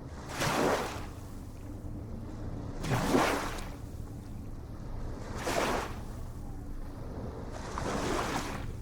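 Ocean waves washing in, four surges about every two and a half seconds over a steady low rumble.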